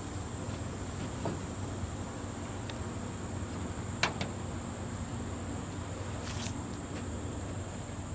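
Steady high-pitched chirring of crickets or other insects, with a couple of sharp clicks near the middle.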